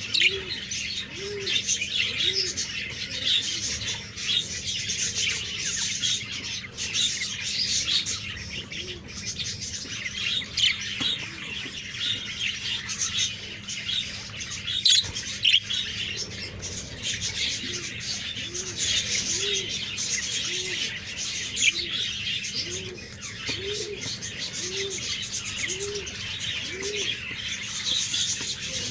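A flock of small birds chirping continuously in high, busy twitters. Runs of a low, short note that rises and falls, repeated about twice a second, join in near the start and again through the second half, over a faint steady low hum.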